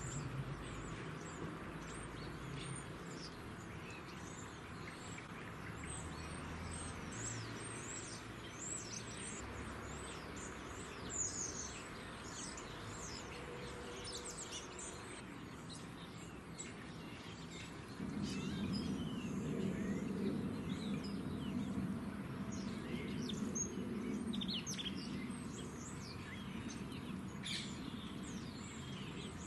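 Many small garden birds chirping with short, high calls. A low steady rumble joins about two-thirds of the way through.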